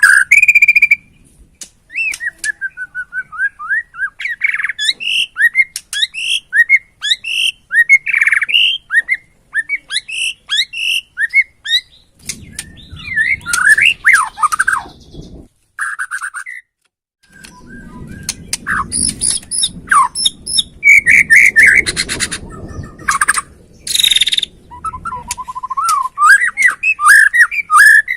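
White-rumped shama of the Borneo race singing a fast, varied song of whistles, slurred notes and rapid chattering trills. The song breaks off briefly about halfway through. A low noise runs under it in parts of the second half.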